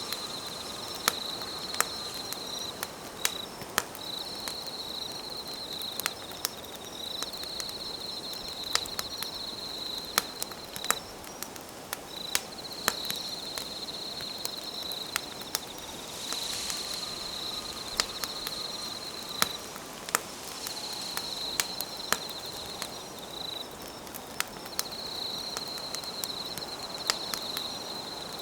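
Wood campfire crackling, with sharp irregular pops, over a steady high trill of night insects that runs in long stretches broken by short gaps.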